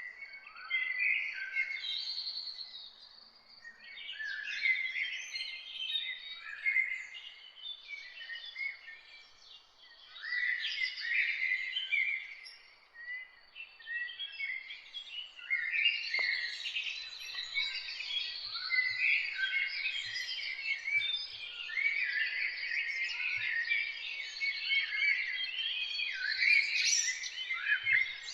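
Several songbirds chirping and singing at once, a dense chorus of short, quick high-pitched notes and trills, thinning briefly a few times and busier in the second half.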